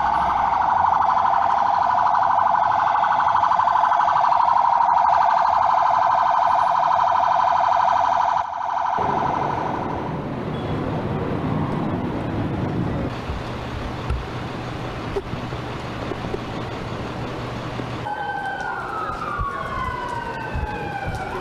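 Emergency vehicle sirens in street traffic. A loud, steady siren tone cuts off abruptly about nine seconds in, leaving traffic noise. From about eighteen seconds, two wailing sirens rise and fall out of step with each other.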